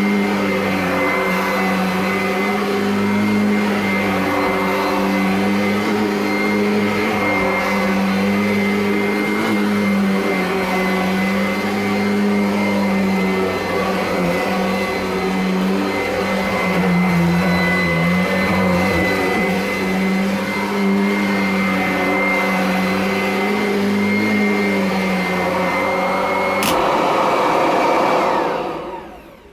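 Kirby Avalir upright vacuum cleaner running steadily with a high whine over its motor hum. Near the end there is a click and the motor winds down, its whine falling in pitch, until it stops.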